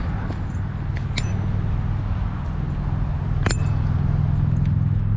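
Vehicle engine idling with a steady low hum, with two light metallic clinks, about a second in and again about three and a half seconds in.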